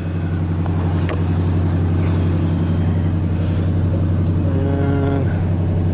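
1986 Chevy K-10 pickup's carbureted engine idling steadily. Its idle is unreliable, which the owner puts down to the fast-idle cam linkage not working right.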